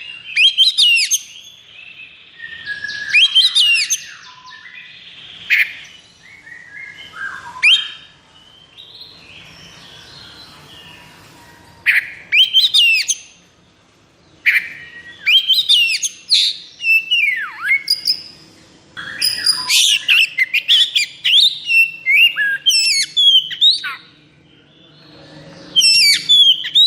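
Oriental magpie-robin (kacer) singing in the fast, aggressive 'konslet' style: rapid bursts of varied whistles, rasping notes and sharp sweeping calls, delivered in phrases with short pauses between them.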